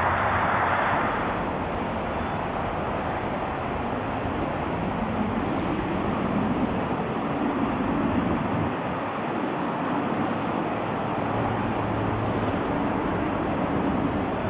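Airliner jet engines making a steady roar. A higher hiss fades out in the first second or two, and a lower rumble swells and eases in the middle.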